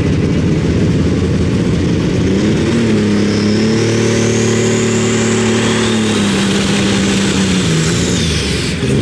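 Pulling tractor's engine running hard at full power. Its pitch rises a little over two seconds in, holds, then falls away near the end, with a high whine rising above it through the middle.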